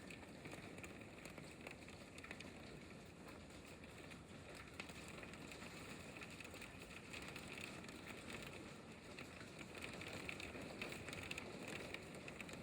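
Hail falling in a storm: a dense, steady patter of many small hits, growing a little heavier in the second half.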